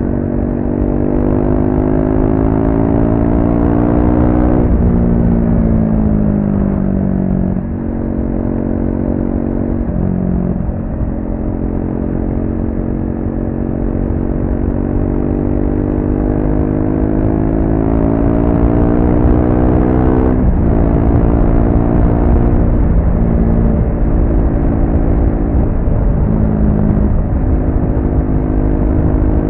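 Triumph Speed 400's single-cylinder engine through its stock exhaust under way: the revs climb for about four seconds, then drop sharply and fall away. After that comes a long slow climb that ends in a second sudden drop near the end, and the engine then runs at a nearly steady pitch.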